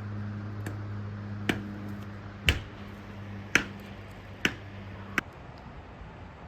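Six sharp knocks, about one a second, over a low steady hum that stops near the last knock.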